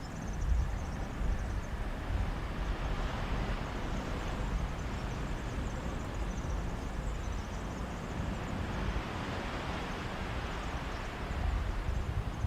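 Mediterranean sea waves washing onto a beach, the hiss swelling and easing about twice, with sea-breeze gusts rumbling on the microphone.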